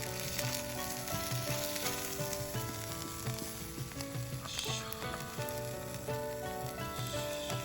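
Food sizzling as it fries, with a melody of background music over it.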